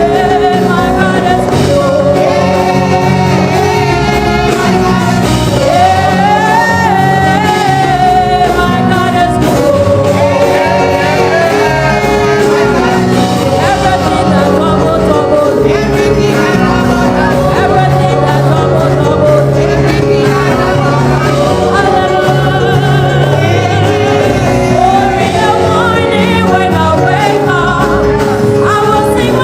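Gospel worship song: a singer holding and gliding through long sung lines over a band with steady bass notes.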